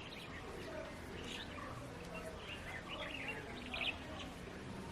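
Wild birds chirping faintly in the background: scattered short, high calls over a soft outdoor ambience.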